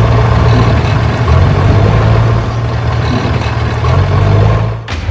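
A motor engine running steadily at idle, like a tractor's, with a strong low hum; it cuts off suddenly near the end.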